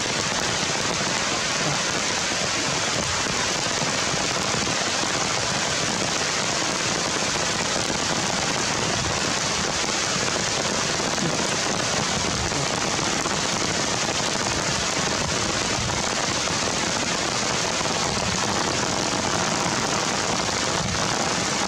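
Steady rain falling on the forest canopy.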